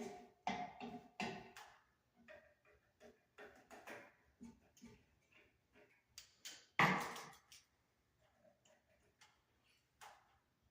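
Irregular clicks, knocks and clinks of hard parts being handled, some ringing briefly, with one louder knock about seven seconds in.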